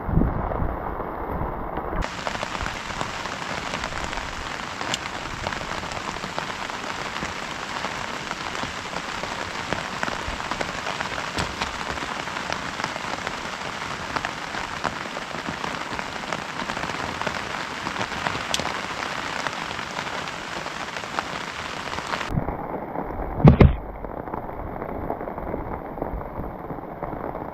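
Heavy rain falling steadily in a dense hiss. Near the end comes one short, loud thump.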